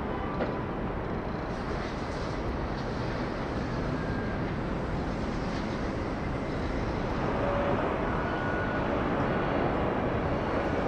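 Jet airliner engine noise, a steady rushing rumble that grows louder in the last few seconds.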